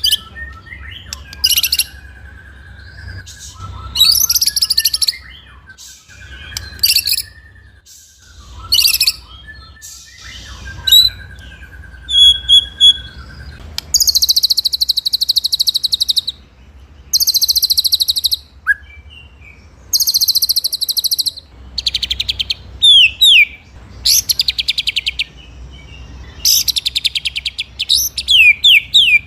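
White-rumped shama (murai batu) singing loudly in repeated bursts of very fast, high rolling trills, each about a second long. In the first half, lower held whistles fill the gaps between the trills; near the end come quick sweeping notes.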